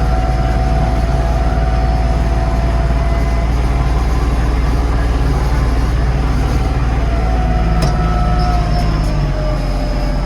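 Yanmar 235C compact tractor's diesel engine running steadily while it pushes snow, easing off slightly near the end.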